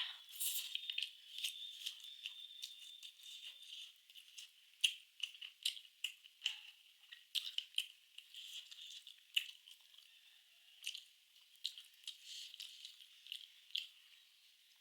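Eating sounds: quiet, irregular crisp clicks and crackles of chewing food, with no voice.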